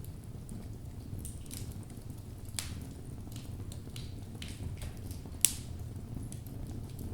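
Wood logs burning in a fireplace: a steady low rumble of the flames with scattered crackles and pops, the loudest a sharp snap about five and a half seconds in.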